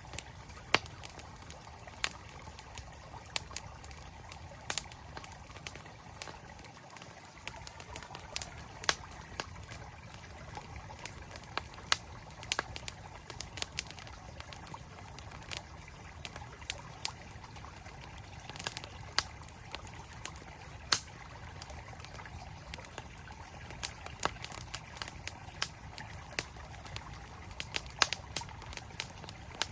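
Campfire crackling, with frequent sharp, irregular pops of burning wood, over the steady rush of a flowing mountain stream.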